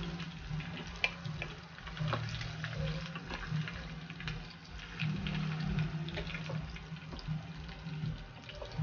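Food frying in a shallow pool of hot oil in a wok: a steady crackle with many small pops, and a few sharper knocks of a wooden spatula in the pan as the fried pieces are lifted out.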